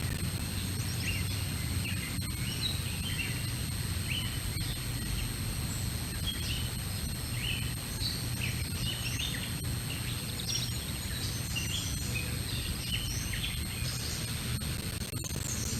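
Many small songbirds chirping and calling in short, scattered notes, over a steady low rumble of background noise.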